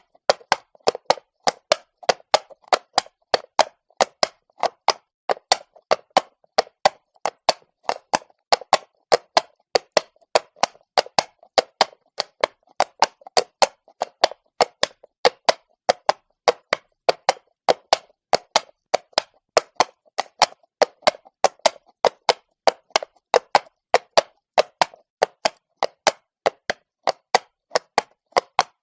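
Horse walking on cobblestones: its hooves clop in a steady, even rhythm of sharp strikes, about three to four a second.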